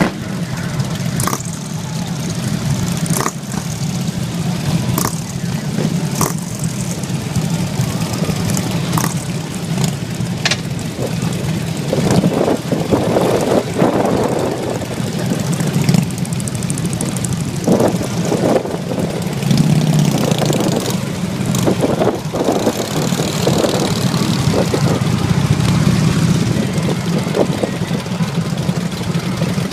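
A group of motorcycle engines running with a steady low rumble that swells louder at times, with scattered sharp clicks.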